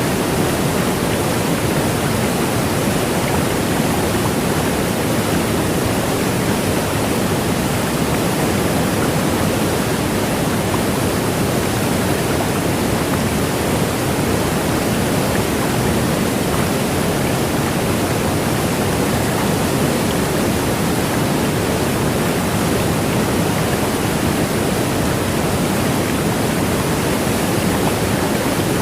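Steady, unbroken rushing noise at an even level throughout.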